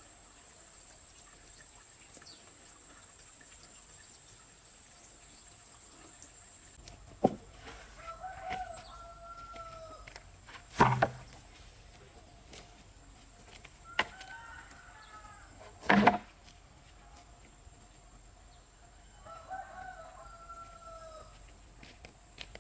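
A rooster crowing three times, each crow a second or so long and dropping in pitch at the end. Three loud, sharp knocks fall between the crows.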